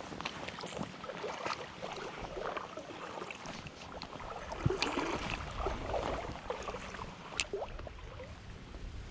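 Someone wading through a shallow creek: irregular sloshing and splashing of water around the legs, with scattered clicks of stones underfoot. The sloshing is strongest about halfway through.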